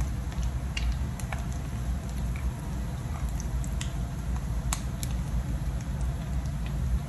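Ground beef and egg patties (tortang giniling) frying in oil in a pan, sizzling with scattered irregular pops and crackles, being cooked a little longer to crisp. A steady low rumble runs underneath.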